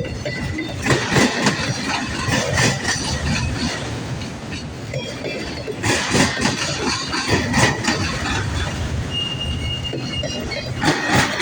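Freight cars of a long CSX freight train rolling past, their wheels clacking rapidly and irregularly over rail joints. Thin high wheel squeal sounds early on and again briefly about nine seconds in.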